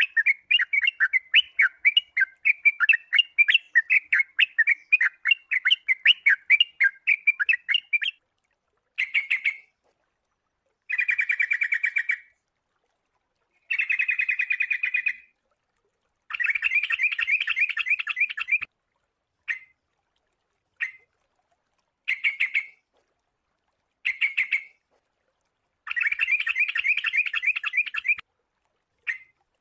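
Sooty-headed bulbul calls: for about eight seconds a fast, unbroken run of chirps, then a string of short bursts of rapid chattering trills, each cut off by complete silence.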